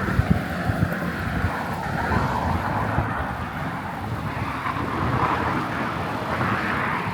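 Wind rushing over the microphone of a riding cyclist, an uneven low buffeting, with a steady hiss of tyre and road noise.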